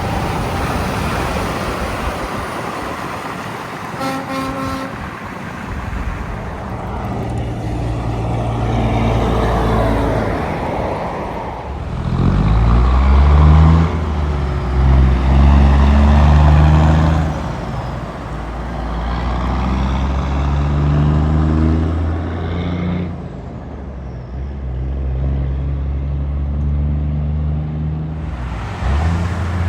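Heavy trucks' diesel engines accelerating past, the engine note climbing in steps as they shift up through the gears, loudest around the middle. A brief horn toot sounds about four seconds in.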